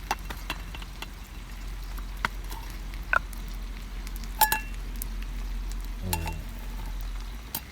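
Scattered clicks and a ringing metallic clink of camp cookware being handled.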